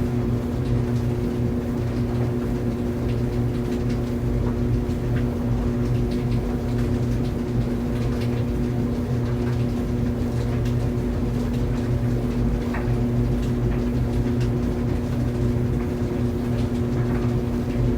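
Clothes dryer running steadily: a constant motor hum and drum rumble, with faint scattered light ticks and taps from the tumbling load.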